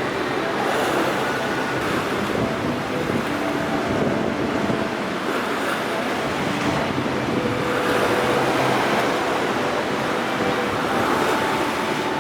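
Rough sea with high waves and strong wind, a steady rushing noise with wind on the microphone.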